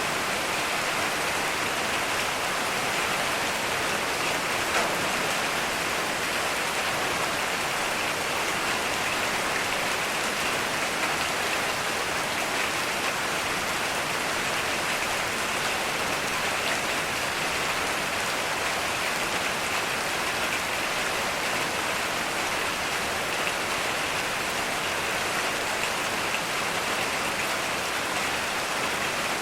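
Heavy rain falling steadily: a dense, even hiss of drops with no let-up and no thunder.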